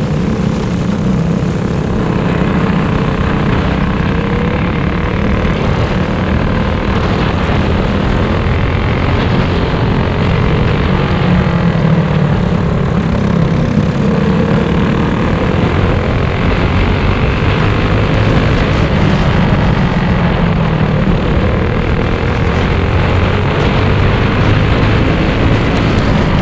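Small engines running together in a steady drone, their pitch shifting a little up and down.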